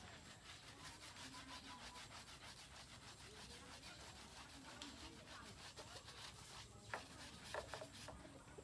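Faint, steady scrubbing of a motorcycle being washed by hand, with a few sharp knocks near the end.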